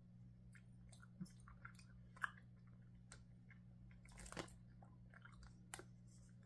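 Faint close-up chewing of a gummy candy, with soft wet mouth clicks and smacks. There is one sharper click a little over two seconds in and a short burst of mouth noise a little after four seconds.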